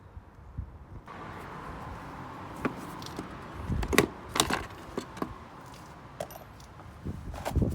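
Scattered sharp clicks and knocks, the loudest about four seconds in, from hands working on a car's plastic air filter housing. A faint steady background noise comes up about a second in.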